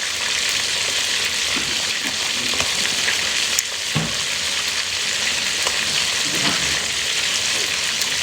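Food sizzling steadily in hot oil in a pan, with a single knock about four seconds in.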